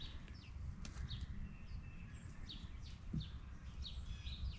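Small birds chirping in the surrounding woods, a quick run of short, falling chirps, over a low steady rumble.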